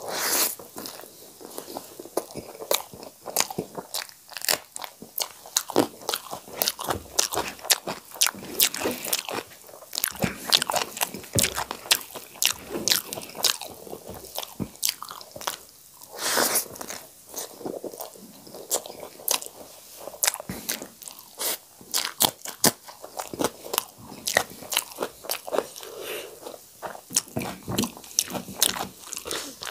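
Close-miked chewing of a mouthful of rice and saag greens, with many sharp crunching bites and wet mouth clicks throughout.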